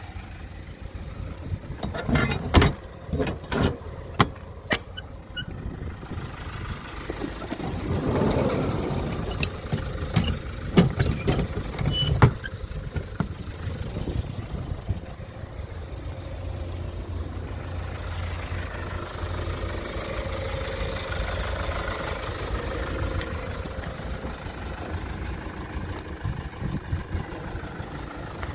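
Kia Bongo III truck's engine idling steadily, with a run of sharp clicks and clunks in the first half.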